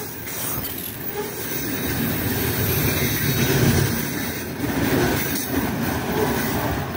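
Freight train's open gondola wagons rolling past, their steel wheels rumbling and clattering on the rails.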